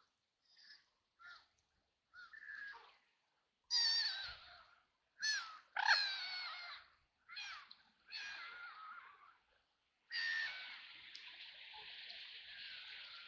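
Ducks quacking: a run of short, raspy quacks, faint at first and louder from about four seconds in, then a longer drawn-out harsh call near the end.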